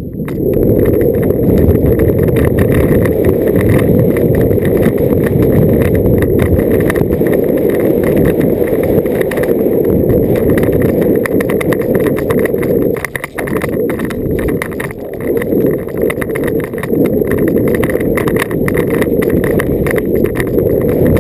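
Mountain bike descending a rough downhill trail: wind buffets the microphone in a continuous low rumble, with frequent rattles and knocks from the bike over the ground.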